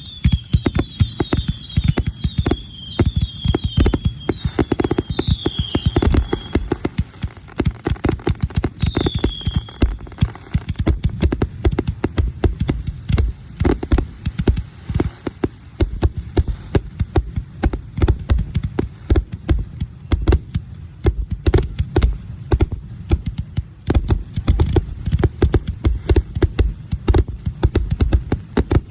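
Fireworks going off in a rapid, irregular string of pops and thumps for the whole time, with repeated short high whistles through the first ten seconds.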